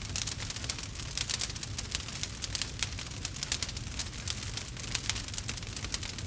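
Campfire burning with many sharp crackles and pops in quick irregular succession over a low steady rumble of the flames.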